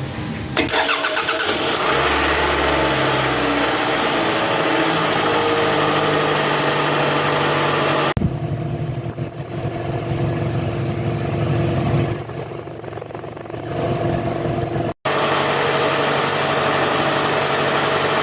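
Car engine starting and then running, its pitch rising and falling as it revs, in several short segments cut together.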